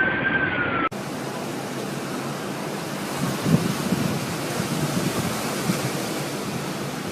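Strong storm wind rushing steadily over the microphone. In the first second a faint siren-like tone sags in pitch before the sound cuts abruptly.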